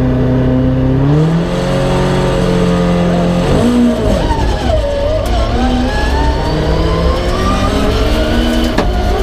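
Peugeot 306 rally car's engine held at steady revs, stepping up in pitch about a second in, then dipping and revving up again with a steadily rising pitch as the car accelerates hard. A single sharp click near the end.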